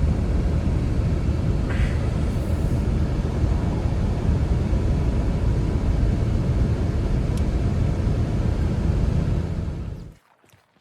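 Strong wind blowing in a blizzard: a loud, steady, deep rush that cuts off suddenly near the end.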